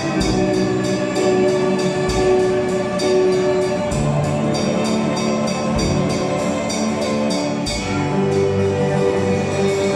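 A small instrumental ensemble playing a tune in a steady rhythm, with a low bass note about every two seconds and regular light strokes on top.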